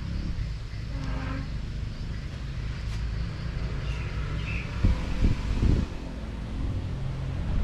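Harley-Davidson Forty-Eight Sportster 1200's air-cooled V-twin engine running on the road, heard from the saddle, with a few louder low thumps about five seconds in.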